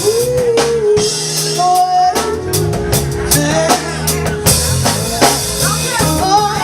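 Live band playing a song with a drum kit on a steady beat and bass notes underneath, while a singer holds long, sliding vocal notes.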